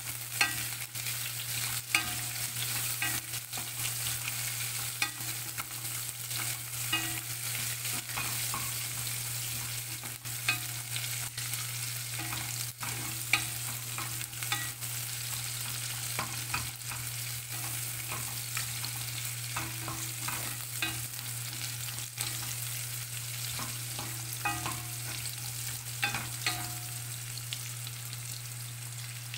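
Onions, garlic and pork pieces sizzling as they sauté in a pot, while a wooden spatula stirs them, scraping and knocking against the pot in scattered clicks. A steady low hum runs underneath.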